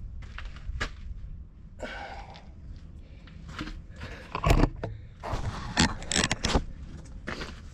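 Irregular metal clanks and scrapes of hand tools and steel parts being worked on a track loader's damaged front end, with a few louder knocks in the second half.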